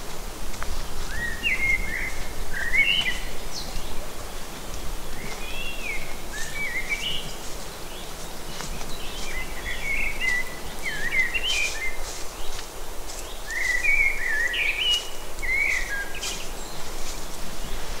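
A songbird singing in four short warbling phrases a few seconds apart, over a steady low rumble of woodland background. Scattered faint crackles come mostly in the middle.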